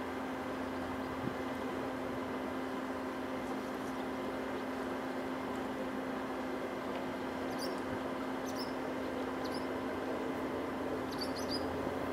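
Steady background hiss and low hum, with a few short, high chirps from distant small birds about eight seconds in and again near the end.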